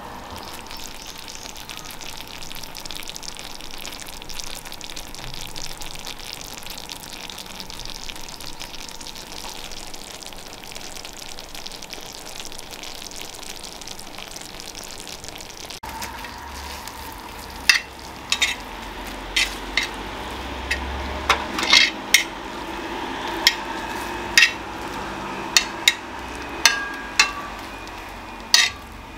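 Super-sweet corn pieces sizzling in oil on a cast-iron pot-lid griddle, a steady hiss. About halfway through the sizzle changes and a run of sharp clicks and taps comes in as metal tongs turn the pieces on the griddle.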